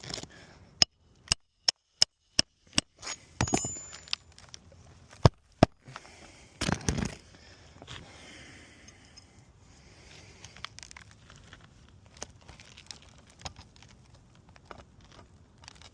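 A hammer striking six times in a quick run, about three blows a second, then twice more a few seconds later. Scraping and gritty rustling against the asphalt shingle between the blows and after them.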